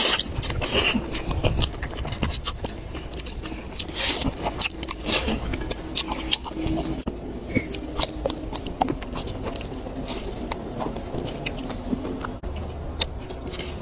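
A person chewing and biting food close to the microphone, with irregular wet smacking clicks throughout.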